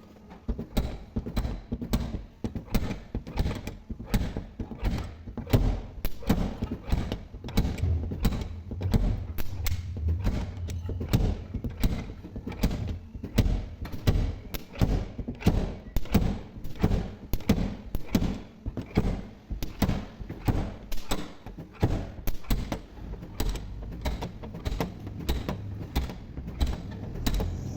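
Repeated sharp knocks and thuds from dent-repair work on a car body panel with spotter tools, coming irregularly at about two a second.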